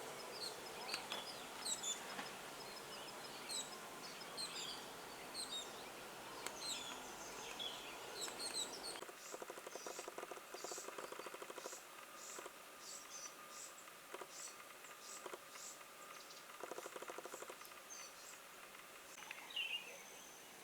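Small birds chirping and calling, many short high notes overlapping. About nine seconds in the sound changes abruptly to a quieter background of sharp high chirps, with two short runs of rapid pulsing.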